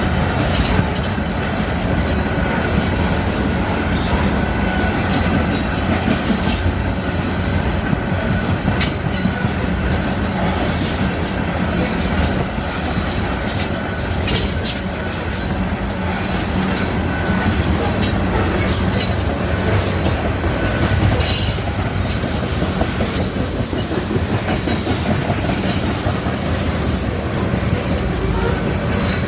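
Empty freight cars of a grain train rolling steadily past, with a continuous rumble, wheels clicking over rail joints, and a faint thin wheel squeal now and then.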